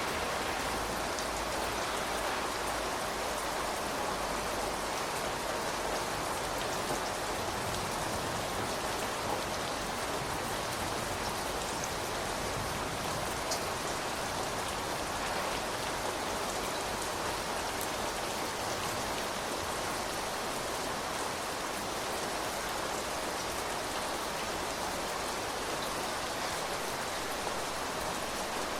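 Steady rain falling on surfaces: an even hiss with the odd louder drop standing out.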